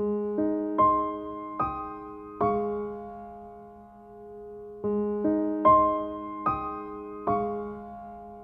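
Gentle background piano music: slow notes and chords struck every half-second or so, each ringing out and fading before the next.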